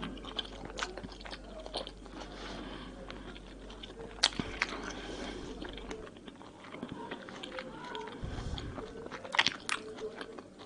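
A person chewing peeled mandarin orange segments close to the microphone: a steady run of small mouth clicks, with sharper snaps about four seconds in and twice more near the end.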